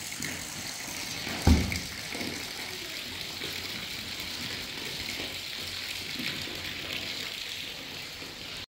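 Steady rain falling, an even hiss, with one short low thump about a second and a half in.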